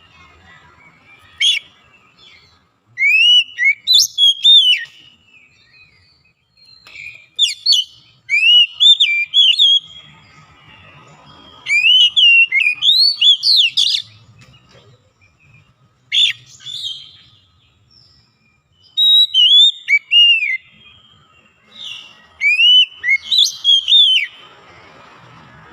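Oriental magpie-robin singing: loud, varied whistled phrases of rising and falling notes, each lasting a second or two, with short pauses between them.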